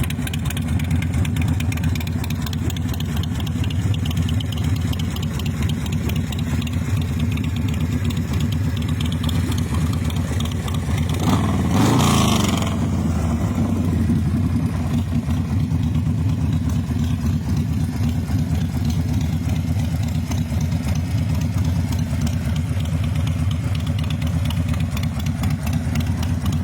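Motorcycle V-twin engine, the S&S 111 cubic-inch motor of a 2003 American IronHorse Roadster/Outlaw, idling steadily. It is revved once briefly about halfway through, then settles back to idle.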